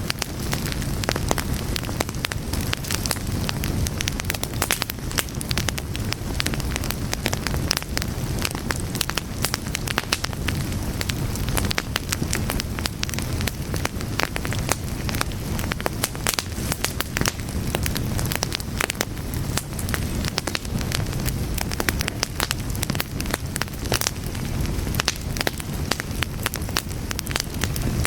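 Fire burning steadily: many irregular sharp crackles and pops over a low, steady rumble of flames.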